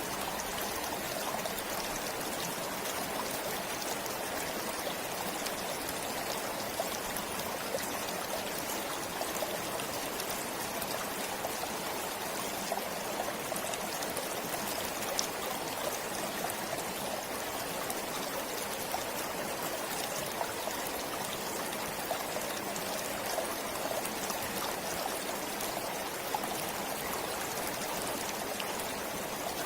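A stream flowing steadily, a continuous rush of water with small splashes and trickles scattered through it.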